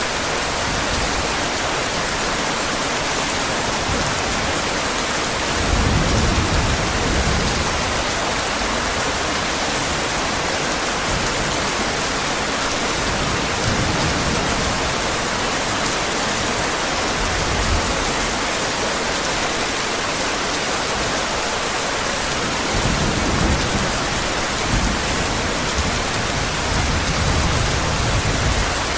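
Heavy rain falling in a steady hiss, with low rolls of distant thunder swelling about six seconds in and again over the last several seconds.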